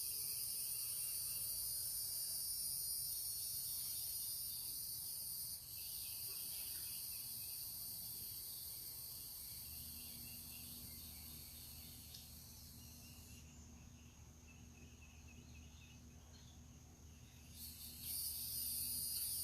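A steady, high-pitched insect chorus that cuts out for a few seconds near the end and then starts again. A low steady hum comes in about halfway through.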